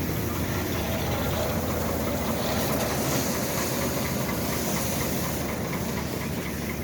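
1993 Ford tractor's engine running steadily, a low even hum under a noisy mechanical clatter.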